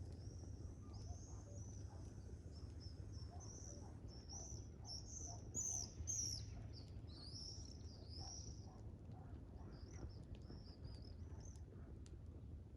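Small birds chirping and twittering in quick, rising and falling calls, busiest and loudest in the middle, over a faint steady low rumble.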